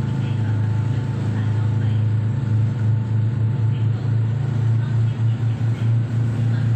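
Ferry engine droning steadily, heard on board, as a deep even hum that wavers briefly in level toward the end.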